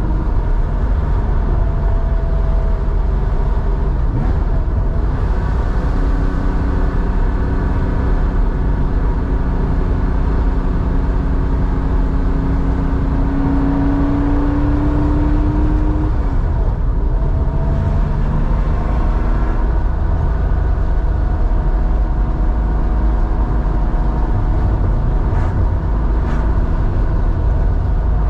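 Porsche 911 air-cooled flat-six, a 3.4-litre with a two-in-one-out muffler, running under way with heavy low rumble. Its note climbs slowly for about ten seconds, then drops about sixteen seconds in, as at a lift-off or gear change.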